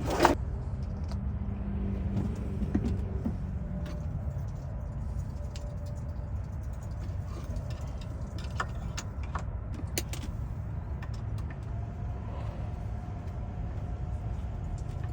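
Steady low hum with a few sharp metallic clicks and taps as the T00 calibration tool is fitted into a key-cutting machine's jaws.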